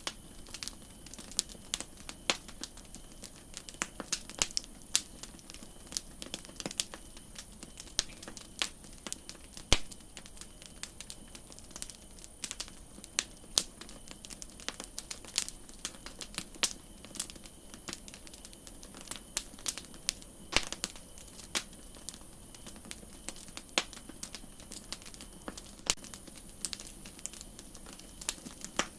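Campfire crackling: irregular sharp pops and snaps, several a second at varying loudness, over a steady hiss.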